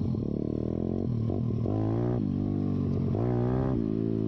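YCF pit bike's single-cylinder four-stroke engine, run with its spark arrestor removed, pulling on the trail. The revs climb twice, about one and a half seconds in and again near three seconds, dropping back in between.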